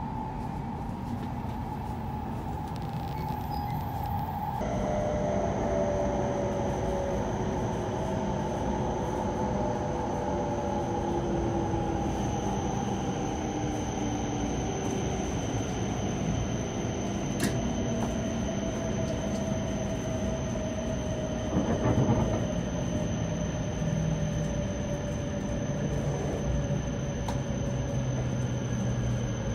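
Inside a Hokuriku Shinkansen E7/W7-series train slowing into a station: the traction motors whine in several tones that fall slowly in pitch over the steady running noise, with a single knock a little past the middle.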